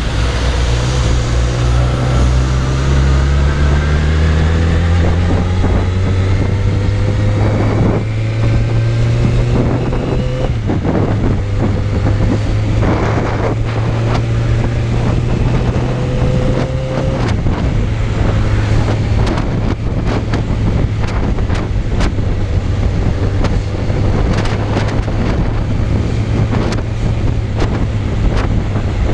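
Suzuki Bandit 600 motorcycle's inline-four engine accelerating under load, its pitch rising through the revs, with a gear change about ten seconds in and another about seventeen seconds in, then running steadily. Wind buffets the microphone throughout, more in the second half.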